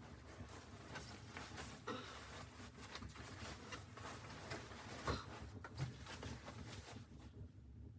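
Irregular rustling with small clicks and knocks, one sharper knock about five seconds in; the rustling stops about seven seconds in.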